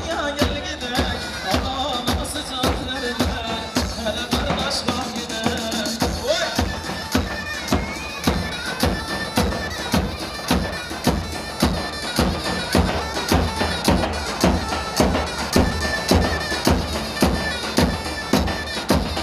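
Instrumental halay dance music from a live wedding band: a reedy wind-instrument melody over a steady drum beat of about two strokes a second, the beat growing more regular about six seconds in.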